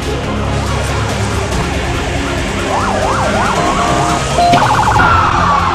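Several emergency vehicle sirens wailing at once, their pitches gliding up and down. About halfway in they turn to a faster yelp, and a rapid warble sets in near the end.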